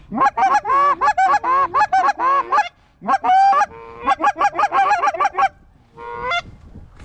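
Geese honking and clucking in fast runs of short, bending notes, several a second, with a brief pause about three seconds in and one last short burst near the end.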